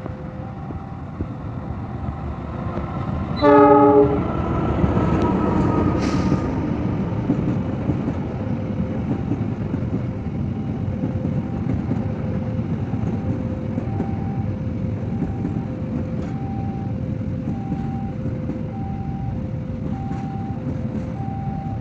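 Passenger train departing: a short horn blast about three and a half seconds in, then the steady rumble of the train rolling. An alternating two-tone warning beep sounds throughout.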